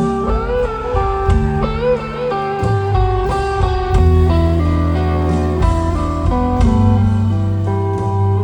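Live rock band with a lead guitar solo. The guitar plays wavering, bent notes in the first couple of seconds, then held notes over the bass and band.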